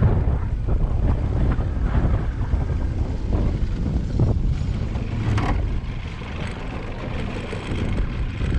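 Strong gusting wind buffeting the microphone, a heavy low rumble that eases a little for a couple of seconds past the middle, with a few brief knocks in among it.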